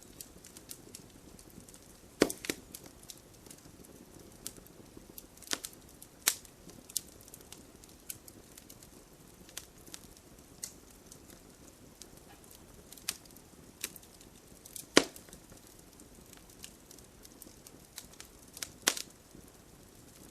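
Campfire burning, with irregular sharp crackles and pops over a soft hiss of flame; the loudest pops come about two seconds in, near fifteen seconds, and near the end.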